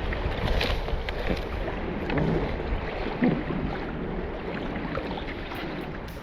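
Wind buffeting the microphone over water lapping against a kayak's hull, with a few light knocks and splashes.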